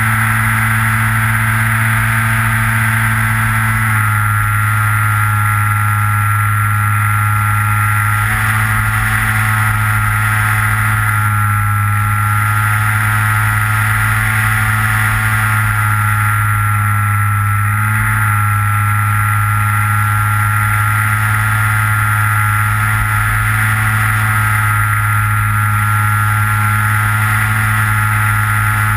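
Electric motor and propeller of a Skywalker RC plane, heard from on board, running as a steady droning whine whose pitch shifts slightly a few times as the throttle changes. Wind rumbles low on the microphone underneath.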